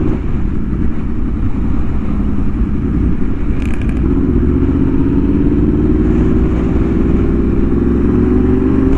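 Yamaha R1M's crossplane inline-four, fitted with an SC Project exhaust, running under way with heavy wind buffeting on the microphone. About four seconds in, the engine note starts to climb steadily as the bike accelerates.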